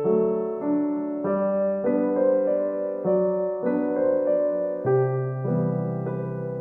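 Background piano music, a slow, gentle piece, with a new chord or note about every half second.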